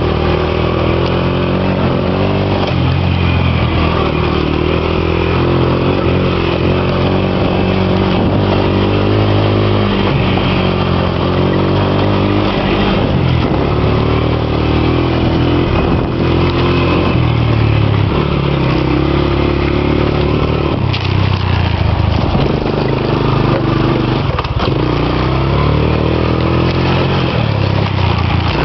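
Motorcycle engine running under way, its pitch shifting up and down with the throttle, over a steady rush of wind and road noise.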